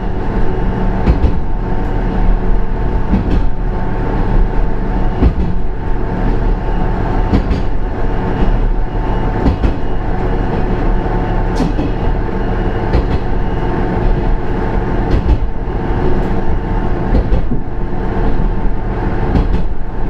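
Ise III-type diesel railcar under way, heard inside the car: the diesel engine runs loud and steady, with scattered clicks from the wheels on the track.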